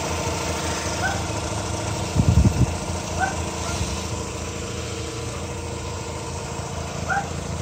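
Mazda RX-8's 1.3-litre rotary engine idling steadily, with a brief louder flutter about two seconds in. It runs smoothly, sounding just like day one.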